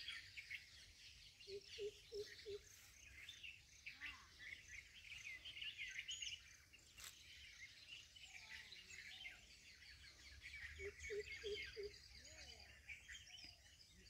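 Small birds chirping and twittering, with a low four-note hooting call heard twice, about two seconds in and again about eleven seconds in.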